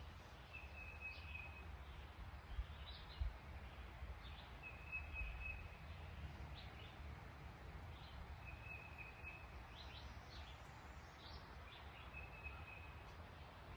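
Faint outdoor birdsong: one bird repeats a short, level, high trill about every four seconds, with scattered brief chirps from other birds. Under it there is a low steady rumble, and two soft thumps come about three seconds in.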